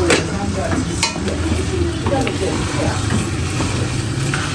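Food sizzling and frying in a pot as it is stirred, with a spoon scraping and clicking against the pot now and then.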